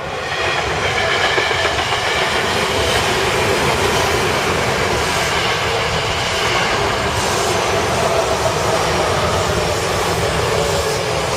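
Electric commuter train passing close by: a loud, steady rush of wheels on rail with clickety-clack, swelling in at the start.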